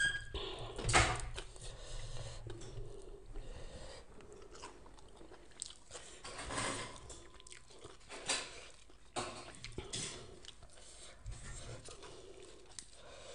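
A person chewing and biting crunchy shredded kohlrabi salad, with irregular crunches and wet mouth sounds, the loudest crunch about a second in.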